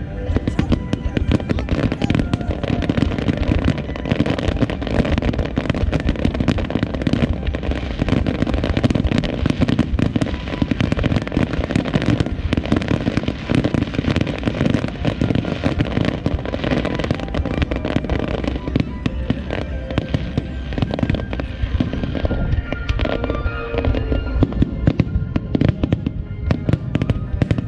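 Starmine fireworks barrage: a dense, continuous run of booming and crackling bursts, many a second, with music playing underneath.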